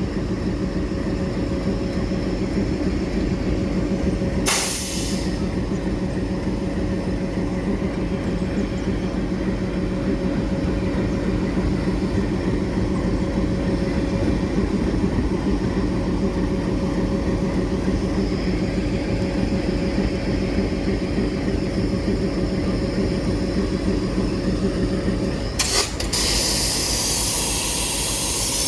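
ALCO WDM-3D diesel locomotive's 16-cylinder ALCO 251 engine idling steadily, with a brief hiss about four and a half seconds in. Near the end a loud air pressure release starts, a strong hiss over the idle.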